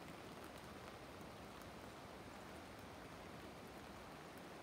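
Faint steady rain falling, with scattered light ticks of individual drops.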